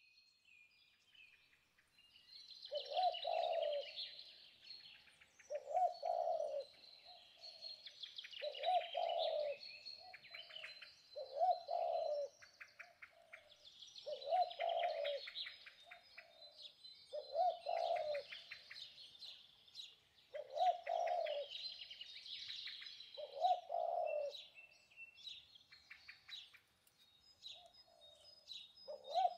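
Birds calling: a lower call repeats about every three seconds over continuous higher chirping and twittering.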